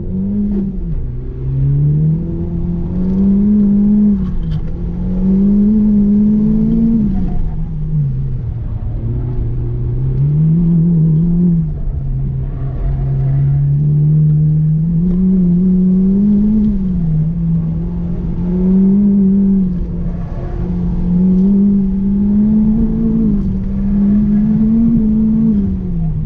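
Honda Type R engine pulling hard and lifting off in turn on an autocross run, heard from inside the cabin: the note climbs under acceleration and drops back every second or two as the car works between the cones.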